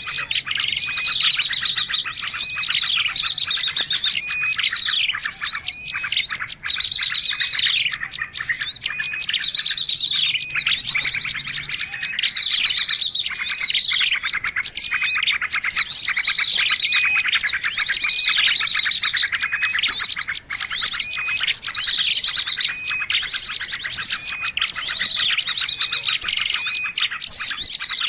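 Dense chorus of small birds chirping and trilling, many rapid calls overlapping without a break: a bird-lure recording of small songbirds.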